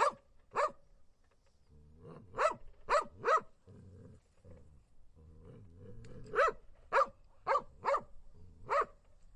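A dog barking in short volleys: two barks at the start, three about two and a half seconds in, and five more from about six seconds in, with a low rumble between the volleys.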